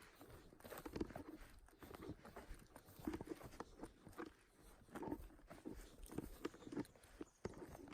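Faint, irregular footsteps on the forest floor, a step or two a second, with light rustling of leaves and twigs underfoot.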